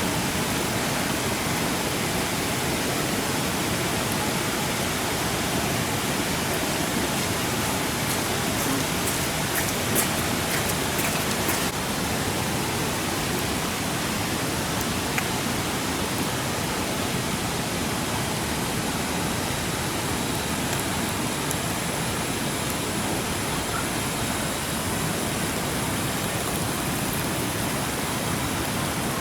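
A steady, even rushing noise, with a few faint clicks about nine to eleven seconds in.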